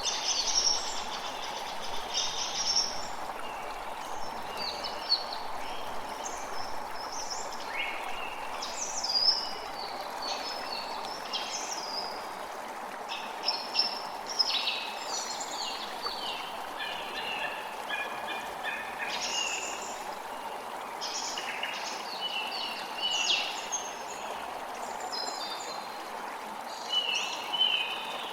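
A creek running with a steady rush of water, while several birds chirp and sing in quick, short phrases throughout.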